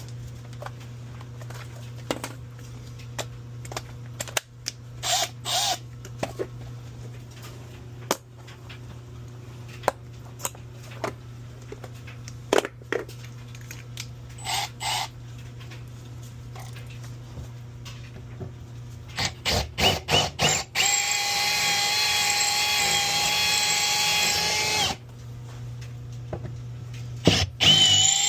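Power drill drilling out rusted, seized bolts: several short trigger pulls and quick blips, then a steady run of about four seconds in the last third that stops and starts again with blips near the end. A steady low hum and occasional knocks sit underneath.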